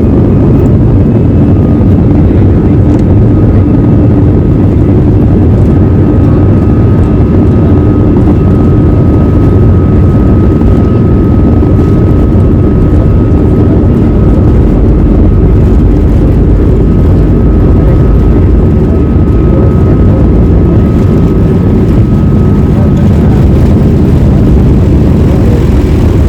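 Airbus A319's CFM56-5B jet engines at take-off power, heard inside the cabin: a loud, steady roar with a thin, steady fan whine over it.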